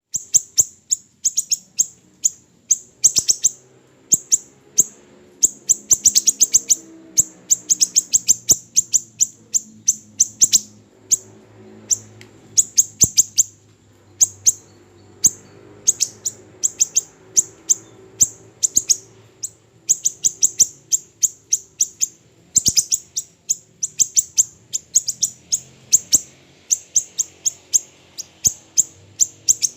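Siri-siri kecil songbird calling: very high, sharp chirps given in quick runs of several notes, over and over with short gaps. A faint low hum runs underneath.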